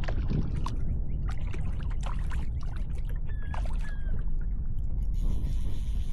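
Wind buffeting the microphone in a low rumble, with water lapping and splashing against a kayak hull in short clicks and slaps. Two short high tones sound about three and a half seconds in, and a brighter hiss comes up near the end.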